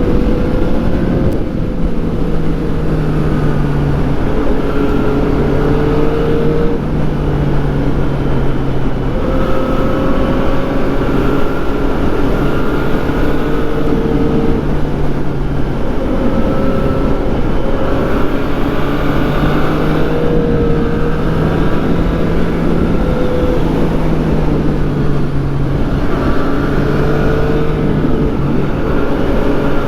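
2014 Yamaha FZ-09's 847 cc inline-three engine running under way, its note rising and falling gently as the throttle is eased on and off, with no hard revs.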